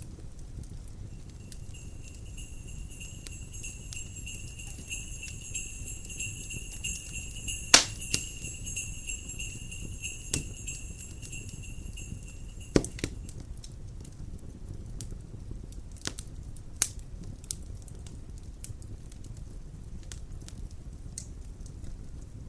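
Jingle bells ringing continuously for about twelve seconds, then stopping, over the crackle of a wood fire with a steady low rumble; two sharp pops, about 8 and 13 seconds in, stand out as the loudest sounds.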